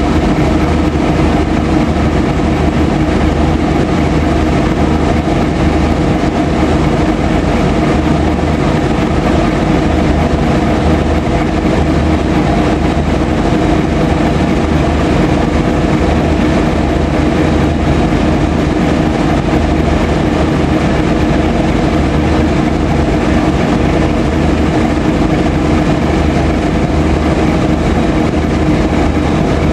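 Freight train of railway tank wagons rolling past, a continuous steady rumble of wagon wheels on the rails.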